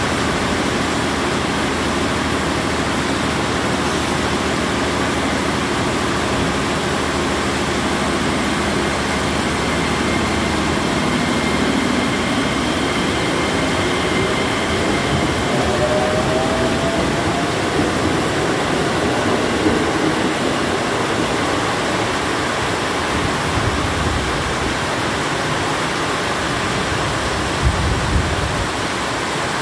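KRL Commuterline electric train running out along the platform in heavy rain, over a steady hiss of downpour. A rising whine comes in about halfway through, and the train's noise gives way to rain by the end, with a couple of short thumps near the close.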